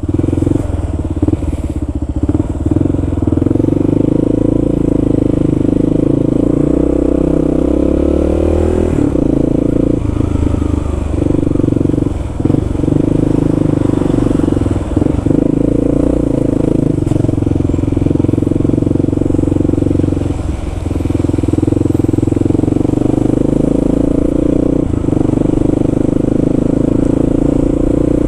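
Kawasaki KLR650's single-cylinder engine running as the motorcycle rides along. The engine note drops briefly several times, then picks up again.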